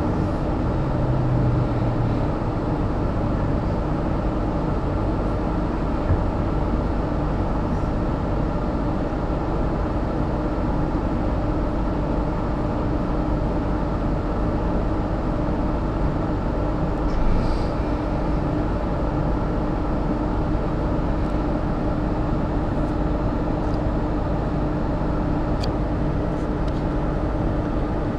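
Steady running noise heard inside a moving electric suburban passenger train, with a constant hum and a few faint clicks.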